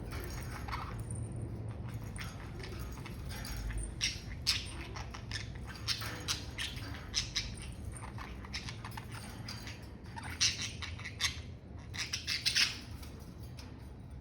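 Budgerigars chattering: a run of short, sharp chirps and squawks, busiest and loudest in the second half, over a faint steady low hum.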